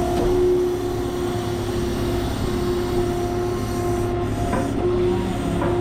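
Hydraulic grapple crane running, with a steady mechanical whine over a low rumble; the whine dips briefly a few times as the machine works.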